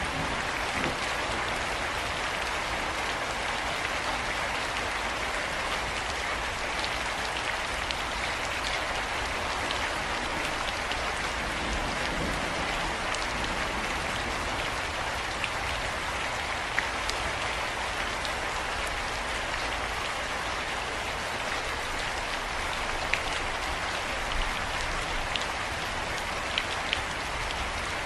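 Steady rain falling, an even hiss with scattered individual drops ticking sharply on a hard surface.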